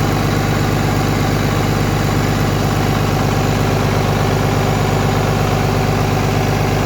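Komatsu 6D114E-3 six-cylinder diesel engine running at a steady idle, loud and even.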